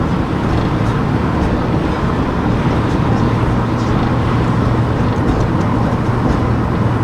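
Car driving along a town street: a steady engine hum and tyre and road noise, heard from the car.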